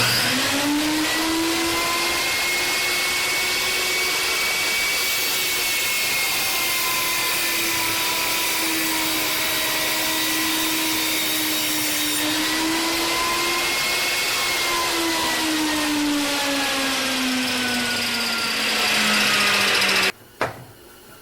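Table saw running and ripping a board's edge straight on a jointer sled: a steady motor-and-blade whine that comes up to speed at the start, sinks in pitch over the last few seconds, and cuts off suddenly near the end.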